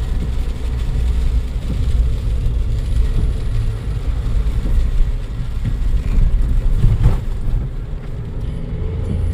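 Road and engine noise inside a Suzuki Jimny's cabin on a bumpy road: a steady low rumble, with a jolt about seven seconds in.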